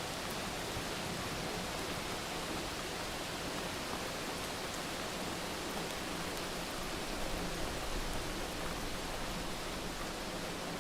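Steady hiss of heavy rain, with a few faint crackles from a wood fire.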